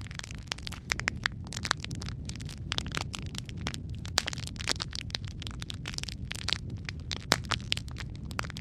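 Logs burning in a fireplace: a steady low rumble of the flames with frequent irregular crackles and sharp pops, a few of them louder.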